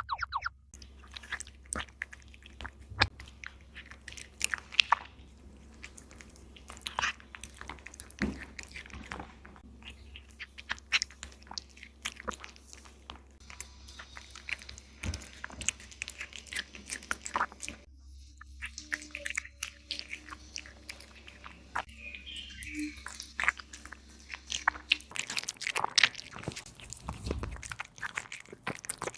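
A cat chewing and crunching its food, with irregular crunches throughout. A steady low hum underneath stops near the end.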